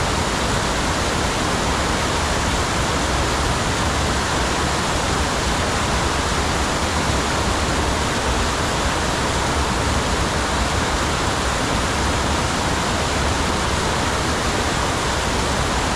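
Steady rushing of creek water, an even, unbroken noise.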